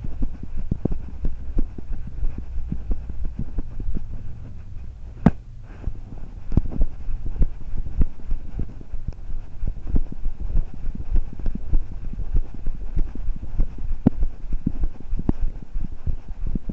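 Knocking, rubbing and tapping from a camera worn by a cat as it moves, over a steady low rumble; the knocks come irregularly, several a second, with one sharper knock about five seconds in.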